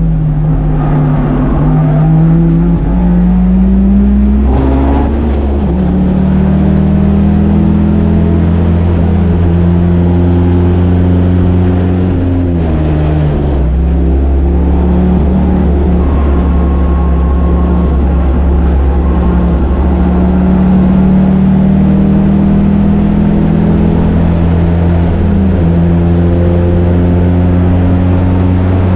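Turbocharged 1.8-litre four-cylinder of a Mazda Miata heard from inside the car on track: the engine pitch climbs under acceleration and drops sharply a few times as the car shifts and brakes. Under it runs a steady, loud hum from old, flat-spotted tires.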